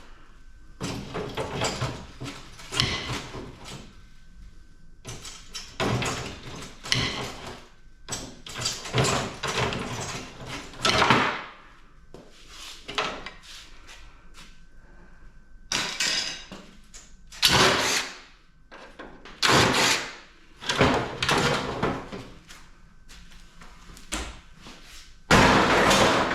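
Metal parts of a PTAC air-conditioning unit being handled as it is taken apart: a string of scraping, sliding and clattering bursts, each a second or less, with short pauses between them.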